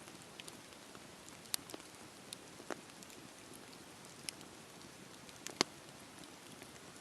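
Campfire burning: a soft steady hiss with scattered sharp crackles and pops, the loudest about five and a half seconds in.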